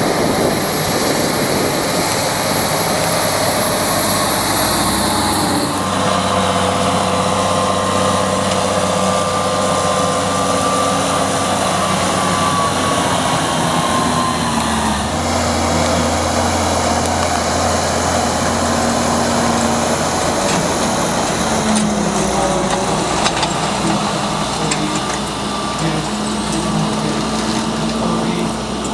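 Large farm tractors' diesel engines running steadily as they work the field, heard across three spliced shots whose sound changes abruptly about six and fifteen seconds in.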